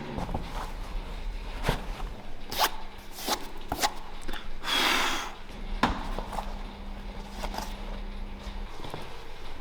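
A series of sharp clicks and knocks from a Toyota Chaser being handled up close, with a brief rustling hiss about five seconds in, over a steady low hum that stops near the end.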